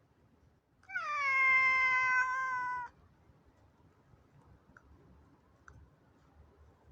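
A domestic cat meowing once, a long drawn-out call of about two seconds that starts slightly higher and settles to a steady pitch. A few faint clicks follow.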